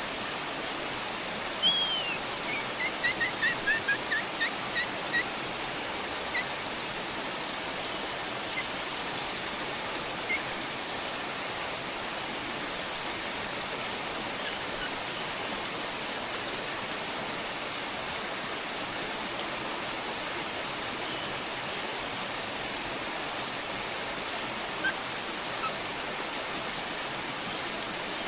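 Small bird calls over a steady hiss. A quick falling series of chirps comes a couple of seconds in, then a run of thin, high ticking calls, about two a second, through the middle, with a few single notes near the end.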